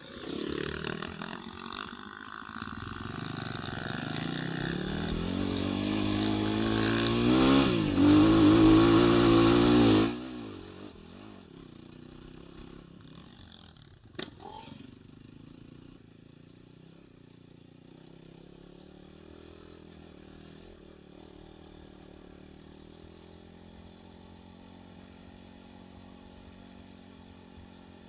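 Enduro motorcycle engine under throttle, getting louder and higher for about ten seconds and then cutting off suddenly. A single sharp knock follows a few seconds later, then a quieter steady engine note.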